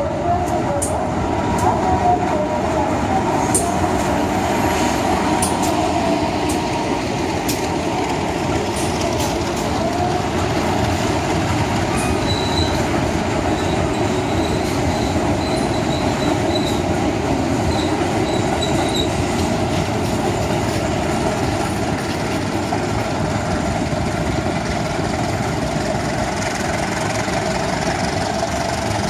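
Locomotive-hauled passenger train running past the platform: a steady rumble of wheels on rail with scattered clicks. The wheels squeal near the start, and a thin, high squeal comes and goes in the middle.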